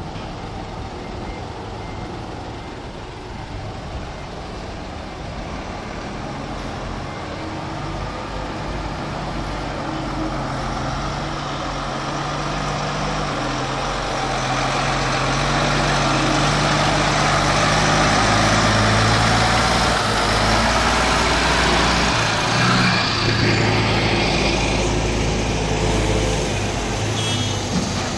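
A big truck's engine running, growing louder over the first two-thirds and loudest about two-thirds of the way in, then easing slightly.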